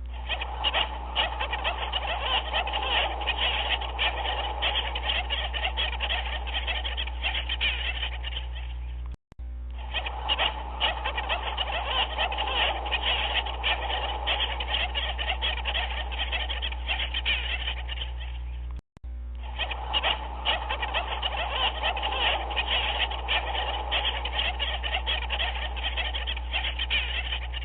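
A dense chorus of many overlapping animal calls over a steady low hum, a short recording looped about every nine and a half seconds, cutting out for a split second at each repeat, about 9 and 19 seconds in.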